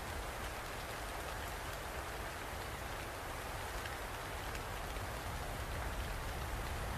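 Steady rainfall, with a dense patter of drops on a surface and a low rumble underneath.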